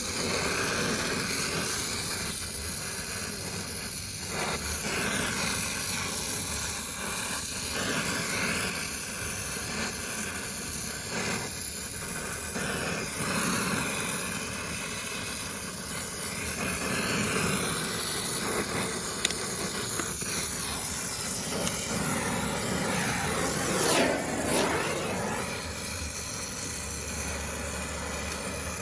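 Gas brazing torch flame hissing steadily while brazing air-conditioner copper pipe, briefly louder about four-fifths of the way through.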